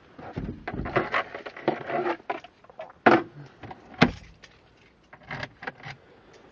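Irregular knocks and clatter of handling a car, with sharp thumps about three and four seconds in, like a car door or hood being shut. No engine is running.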